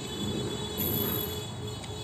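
A person chewing a mouthful of food, with faint mouth clicks, over a steady low background hum.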